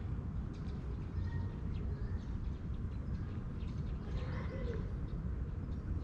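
Birds calling in the background: a few faint short chirps, and a low cooing call about four and a half seconds in, over a steady low rumble.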